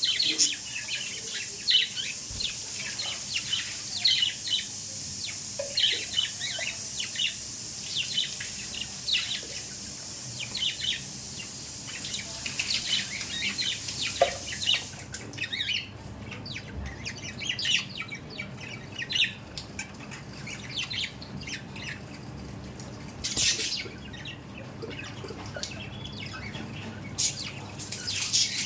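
A group of budgerigars chattering with rapid, overlapping chirps and warbles. A steady high hiss sits under the first half and cuts off about halfway through.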